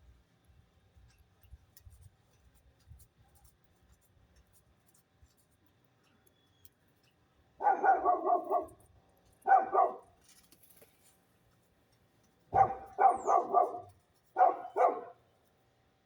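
An animal calling in four short bursts of quick repeated yelps, each burst a rapid run of notes, starting about halfway in.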